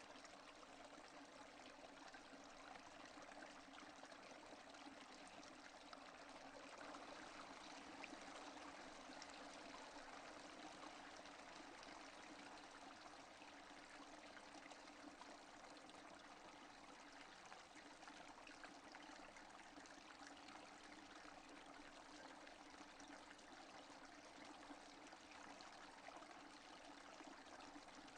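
Faint, steady rain falling with no thunder: an even hiss of many fine drops.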